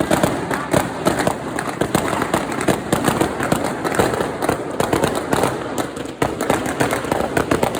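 Fireworks and firecrackers going off, a dense, unbroken run of sharp bangs and crackles.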